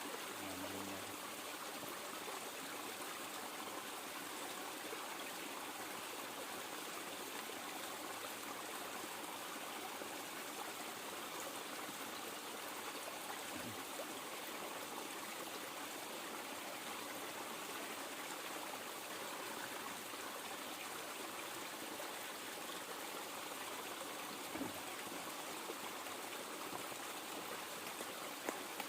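River water flowing steadily, a constant rushing and trickling, with a couple of faint soft knocks.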